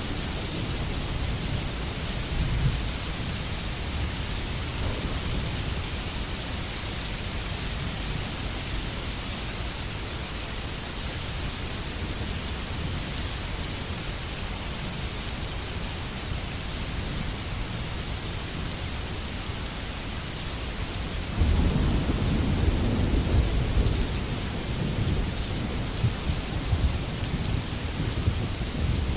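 Steady heavy rain hissing, with low thunder rumbling under it; a louder roll of thunder comes in suddenly about three quarters of the way through and rumbles on.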